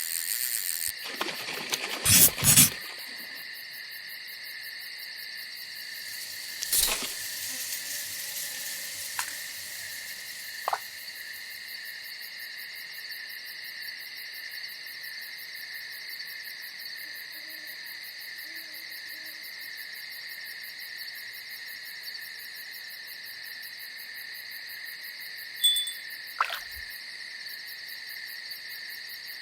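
Night insects chirring in a steady, high chorus. A few sudden knocks or thumps break in, the loudest a pair about two seconds in and smaller ones later.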